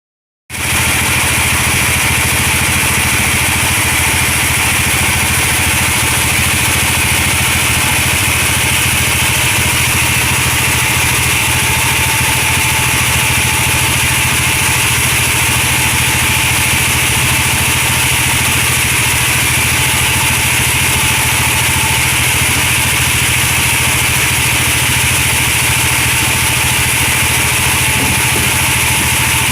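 Engine-driven sawmill bandsaw running steadily, a loud continuous engine hum with a high-pitched saw whine and hiss, starting about half a second in.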